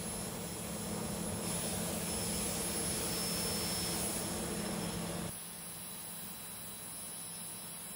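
Jet dragster's turbojet engine running with a steady, dense rush and a low hum, growing louder a second or so in. The sound cuts off abruptly about five seconds in, leaving a quieter hiss.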